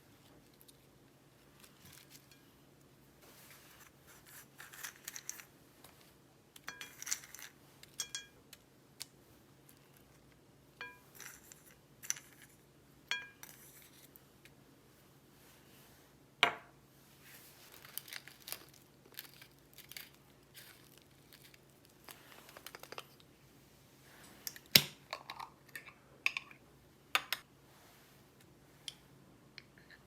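Scattered small handling sounds: light taps, clicks and rustling, a few brief ringing clinks, and two sharper knocks, the loudest about halfway through and near the end.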